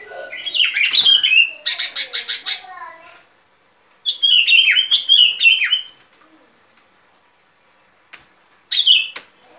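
Bulbuls (bông lau) calling in three bursts of quick, chattering and falling whistled notes, with a rapid run of short notes about two seconds in and a brief call near the end.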